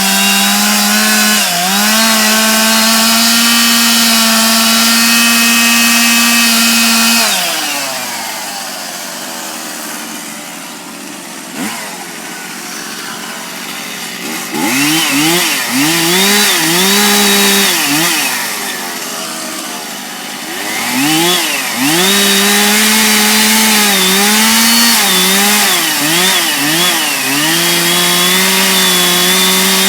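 Two-stroke chainsaw engine running at high revs, dropping back to a low idle about seven seconds in. It is then revved up again several times, its pitch repeatedly sagging and recovering, and it runs high and steady toward the end.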